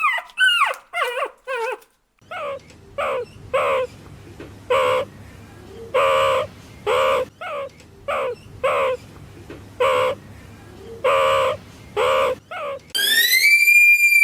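Animal calls from more than one clip: a few quick high calls that drop in pitch, then after a cut a run of short pitched calls about once or twice a second over a steady background hiss, and near the end one long whistle-like call that rises and falls.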